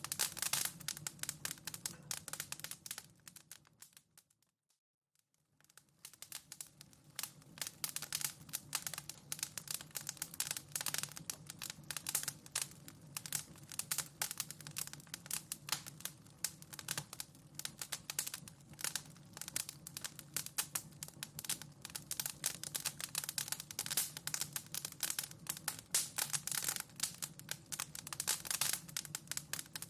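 Wood fire in a fireplace crackling, with dense, irregular snaps and pops over a low steady hum. About four seconds in, the sound fades out to near silence, then comes back up about two seconds later.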